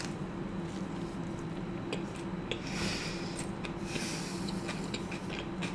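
Close-up chewing of a crunchy paneer tikka taco shell: scattered crackles and mouth sounds, with a couple of short breaths or hisses in the middle, over a faint steady hum.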